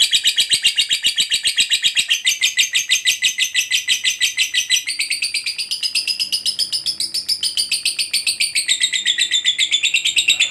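Lovebird in a long, unbroken ngekek: a rapid chattering trill of high, shrill chirps that runs without a pause, its pitch shifting somewhat about halfway through.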